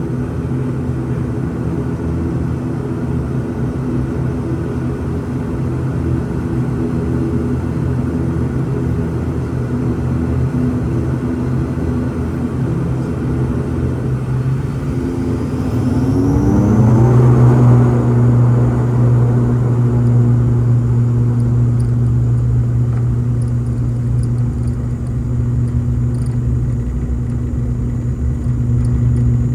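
ATR 72-600's turboprop engines and propellers heard from inside the cabin. A steady multi-tone drone shifts about halfway through as the engines power up: the propeller tones glide into one strong, deeper steady drone, it gets louder, and a faint high turbine whine rises and then holds.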